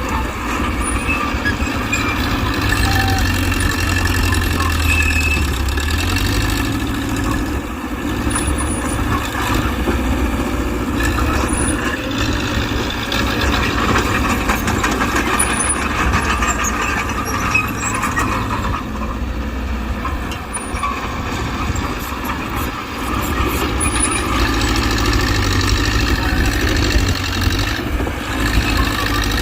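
Diesel engine of a Mitsubishi BD2G crawler bulldozer running steadily as it works. Its low rumble swells a few times, around three to six seconds in and again near the end.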